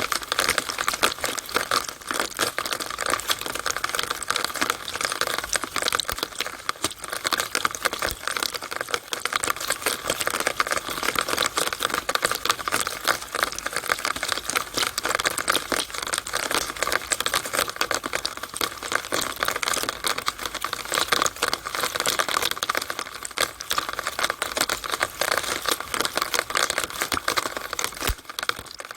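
Rainwater draining through a downspout (rain gutter drainpipe): a steady, dense patter of drips and splashes, like fast irregular ticking.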